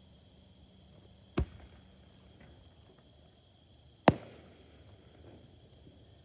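Two firework bangs about two and a half seconds apart, the second louder with an echoing tail, over a steady chirring of crickets.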